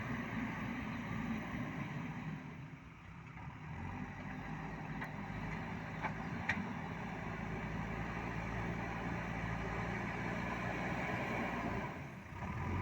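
JCB backhoe loader's diesel engine running steadily, dipping briefly about three seconds in, with a couple of sharp metallic clanks about six seconds in.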